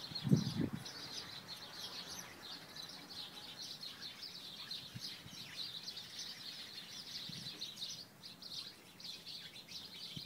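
A flock of small birds chirping continuously, many overlapping short high chirps. A couple of low thumps sound in the first second.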